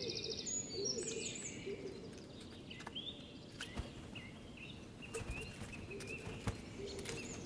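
Forest birdsong: several small songbirds singing short whistled phrases and trills over a faint outdoor background, with a few soft clicks.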